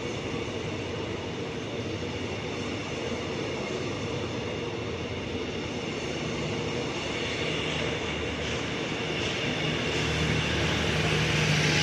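Passenger train coaches rolling past on the rails, a steady rumble and clatter of wheels on track that grows louder near the end, when a low steady hum joins in.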